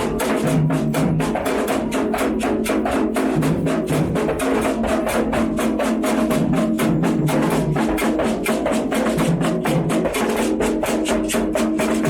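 Candomblé ritual drumming: hand drums struck in a fast, steady rhythm of several beats a second, with sustained low pitched tones running underneath.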